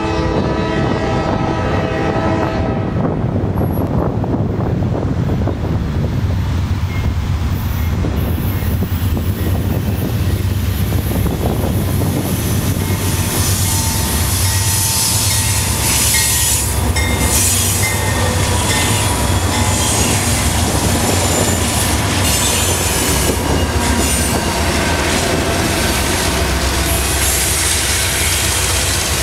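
Norfolk Southern freight diesel locomotives hauling a loaded grain train uphill. The horn sounds for about the first three seconds, then the engines drone loudly under heavy load as they approach. From about twelve seconds in, steel wheels clatter and squeal on the rails as the locomotives and hopper cars pass.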